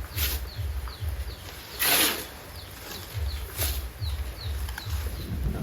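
A bird peeping in short, high, falling chirps, two or three a second, over a low pulsing rumble. Three brief scraping noises cut in, the loudest about two seconds in.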